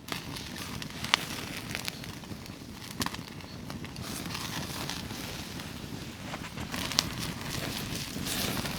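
Campfire crackling, with sharp pops about a second, three seconds and seven seconds in, and fat on a bacon-wrapped skewer sizzling over the flames.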